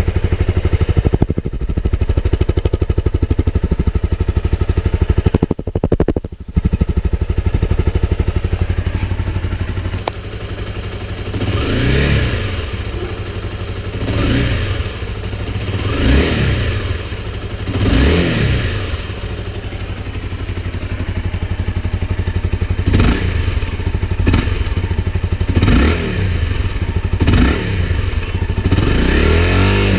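Honda CBR250R's single-cylinder four-stroke engine idling steadily, then revved in a string of throttle blips from about eleven seconds in, each rising and falling in pitch, roughly every two seconds.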